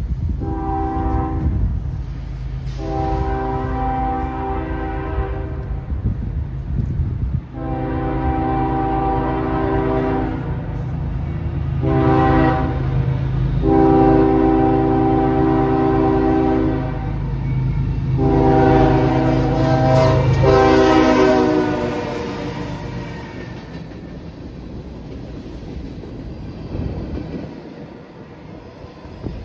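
Diesel locomotive's multi-chime air horn sounding repeated blasts in the long, long, short, long grade-crossing pattern, its pitch dropping as the locomotive passes, over the steady rumble of the engine and rolling train. After the horn stops, the train's rumble carries on and fades.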